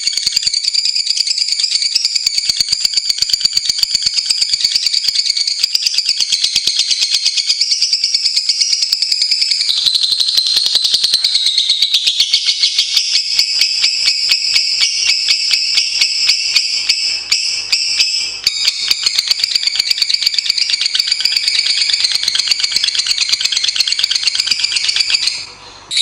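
Lovebird chattering song: a long, nearly unbroken run of fast, high-pitched trills and clicks, with short breaks about two-thirds of the way through and near the end.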